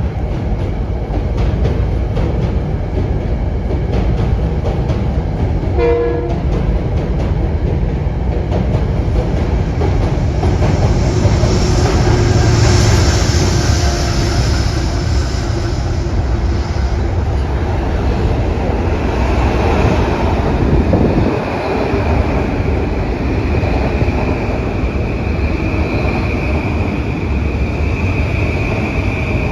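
Metro-North commuter train running through the station: a steady rail rumble with wheels clicking over rail joints, a short horn note about six seconds in, and a high steady whine over the last few seconds.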